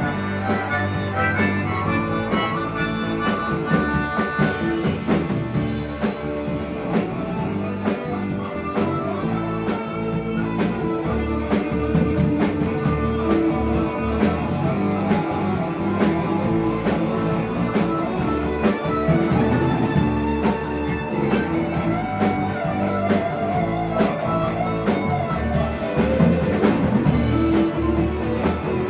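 Band playing an instrumental break of a song with no singing, a lead line over guitar and a steady drum beat.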